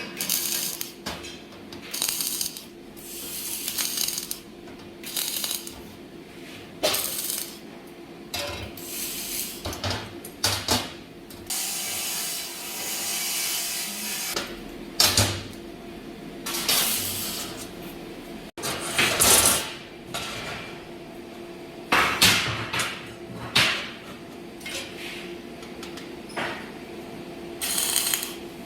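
Steel plate parts of a wood-burning stove being handled and knocked together during fabrication: irregular metal clanks and knocks. Near the middle there is a steady hiss lasting about three seconds.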